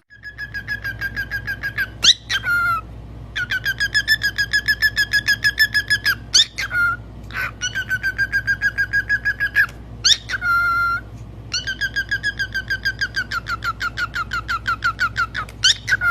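Pet bird whistling long runs of rapid repeated chirping notes, about eight or nine a second, broken three times by a short sharp upward-sliding whistle.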